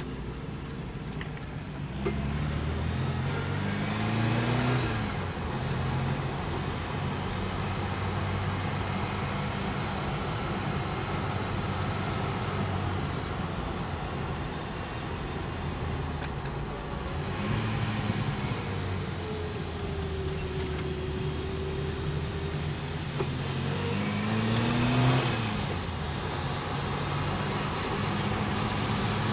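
Opel Kadett C engine running, heard from inside the cabin while the car is driven. The revs climb twice, about two seconds in and again about twenty-three seconds in, and drop back each time.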